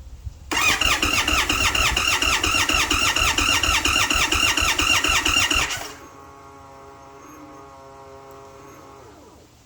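Indian Sport Chief V-twin motorcycle engine turned over by its electric starter for about five seconds, cranking rhythmically at about six strokes a second without catching: a hard start. The cranking then stops and a fainter steady hum carries on for about three seconds before winding down near the end.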